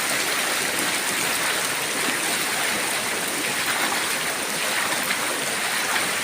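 Fast-flowing creek floodwater rushing past in a strong current, a steady, unbroken wash of water noise.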